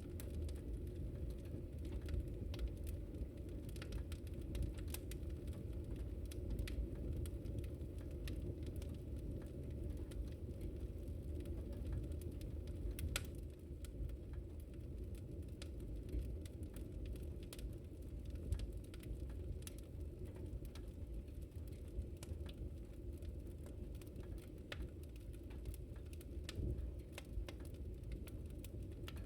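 Wood fire burning: a steady low rumble with scattered sharp crackles and pops, a few of them louder.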